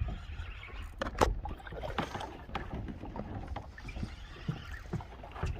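Sea water lapping and slapping against a small fishing boat's hull, with a string of sharp knocks, the loudest about a second in, over a low wind rumble.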